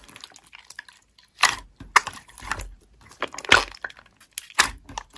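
Slime being squeezed and pressed by hand, giving a run of short crackly squelches and air-pocket pops, several distinct ones a second or so apart.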